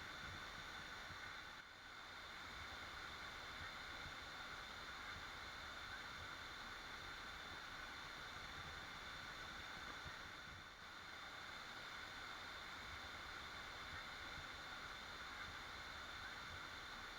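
Waterfall: steady rushing water, dipping briefly twice.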